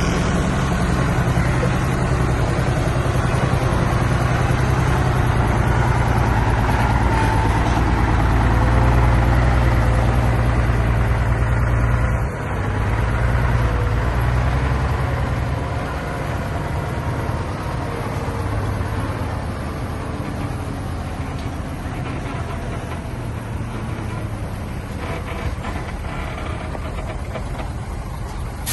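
Bulldozer's heavy diesel engine running in a steady low drone. It dips briefly about twelve seconds in, then runs somewhat quieter for the rest of the time.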